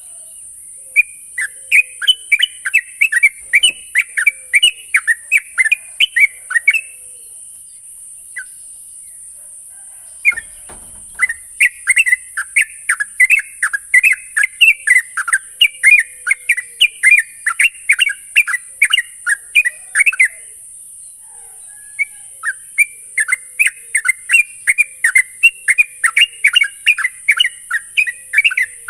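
Yellow-vented bulbul (trucukan) singing in long bouts of rapid, loud chattering notes, about three a second: the continuous 'ngropel' song. Brief pauses split it into three bouts, with a steady high hiss behind.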